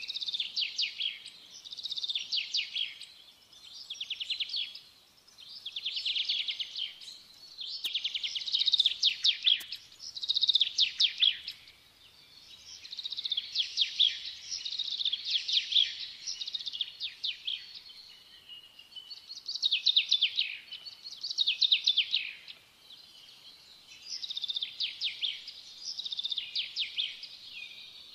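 Birdsong: a bird trilling in repeated high-pitched phrases of a second or two, each a quick run of notes, with short pauses between them.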